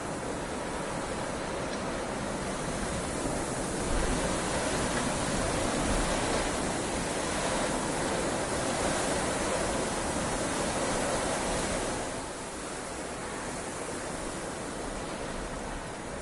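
Rain falling steadily, a constant hiss that swells about a quarter of the way in and eases back again near the three-quarter mark.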